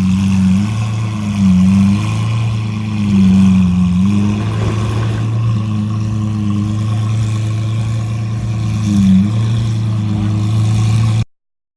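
Car engine and exhaust running with a steady low drone, with a few brief louder swells. The sound cuts off suddenly near the end.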